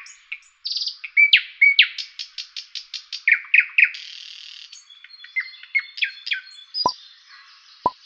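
Birds chirping and singing in a dense run of quick repeated notes and short whistles, with two deep falling plops near the end.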